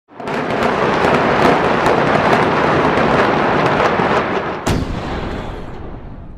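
Demolition explosion sound effect: a sudden blast rising into a long, loud rumble with crackling debris, a sharp crack nearly five seconds in, then fading away.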